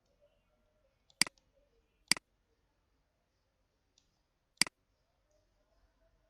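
Computer mouse button clicking three times, sharp single clicks with gaps of about one and two and a half seconds between them, as menu items are selected.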